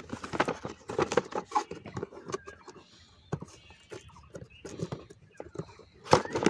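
A toy car's packaging being opened and handled by hand: irregular clicks, taps and light rustles.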